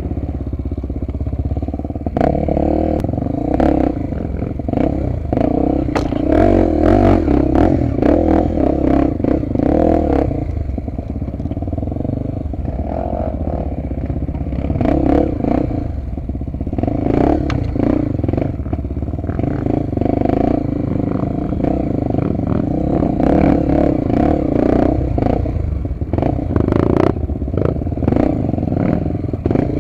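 Honda XR250 Tornado's single-cylinder four-stroke engine running under way on a dirt trail, its pitch rising and falling with the throttle. Frequent clattering knocks from the bike over rough ground come through it, in two busy stretches.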